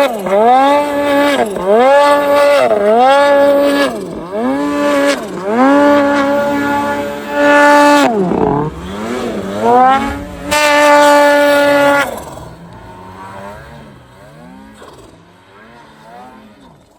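Snowmobile engine revved in quick blips, the pitch climbing and falling back about once a second over and over. About twelve seconds in the loud revving stops and a fainter engine keeps running underneath.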